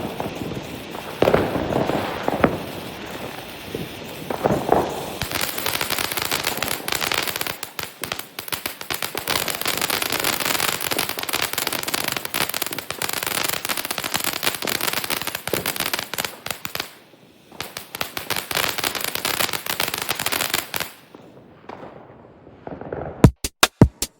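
Consumer fireworks going off: a few separate bangs in the first seconds, then a long run of dense crackling that breaks off briefly about 17 seconds in and stops about 21 seconds in. An electronic drum beat starts near the end.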